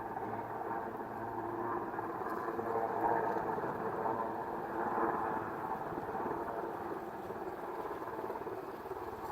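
Helicopter running steadily overhead, its rotor and engine noise swelling a little twice.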